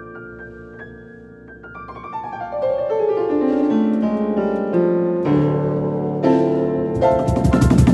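Piano playing soft held notes, then a descending run of notes that grows louder from about two seconds in. Near the end, rapid percussion strikes join the piano.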